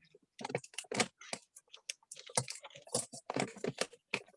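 Wrapping paper crinkling in irregular short crackles as it is folded and creased around a box.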